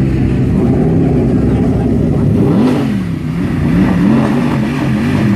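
Car engine running at low revs, then revved up and down several times in quick succession from about two and a half seconds in.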